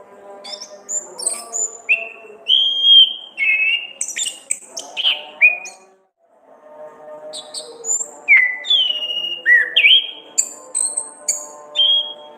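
An orange-headed thrush singing: two loud phrases of varied whistled notes and quick sliding calls, with a short break about six seconds in.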